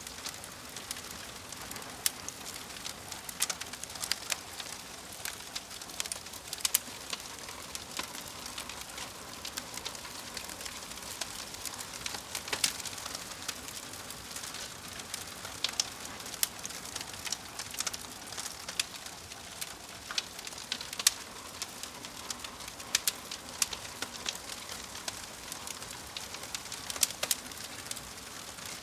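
Wood fire burning in a fireplace: a steady hiss with frequent, irregular sharp crackles and pops from the burning logs.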